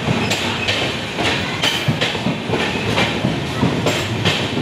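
LHB passenger coaches rolling fast past the platform, with the steady rumble of the train and a rapid run of wheel clacks over the rail joints, about two or three a second.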